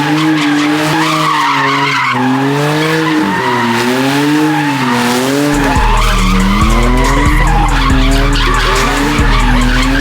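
Car tyres squealing in a long squeal whose pitch wavers up and down about once a second, typical of a car spinning in circles. Underneath, a rap track's heavy bass beat drops out and comes back in about five and a half seconds in.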